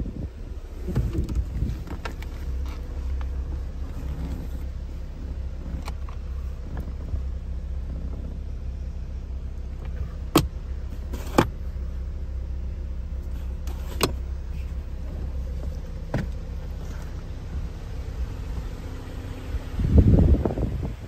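Mazda MX-5's 2.0-litre DOHC inline-four idling steadily, with a few sharp clicks in the middle and a louder rustling thump near the end.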